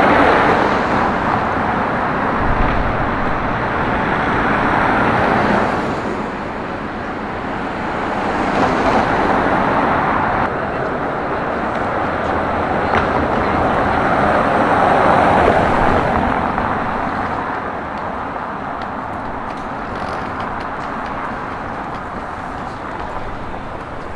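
Street traffic: cars passing one after another, the road noise swelling and fading as each goes by.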